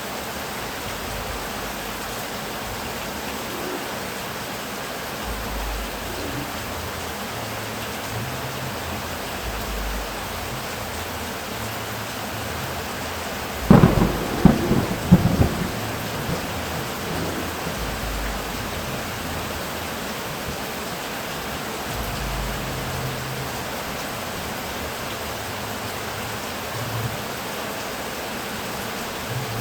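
Steady heavy rain with a thunderclap about halfway through: a few sharp cracks in quick succession over about two seconds, then low rumbling.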